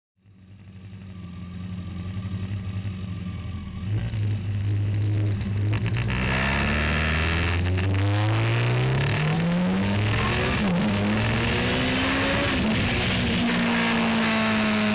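Vehicle engine recorded onboard by an action camera: running steadily, then accelerating with its pitch rising over several seconds and dropping briefly twice at gear changes, then holding steady. A loud rushing wind and road noise builds across the microphone as it speeds up.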